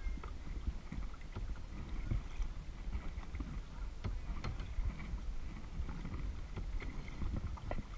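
Kayak paddling: paddle blades dipping into the water with small splashes and drips at irregular intervals, over a steady low rumble of water and wind on the GoPro's microphone.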